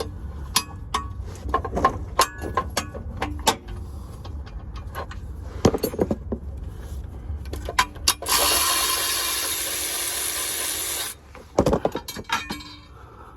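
Metal tool work: a run of sharp clicks and clanks like a hand ratchet, then a steady, even, hiss-like whir for about three seconds starting about eight seconds in, then more clicks.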